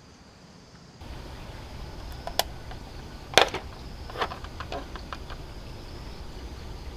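A few light clicks and knocks, the loudest about three and a half seconds in, over steady background noise that jumps up suddenly about a second in.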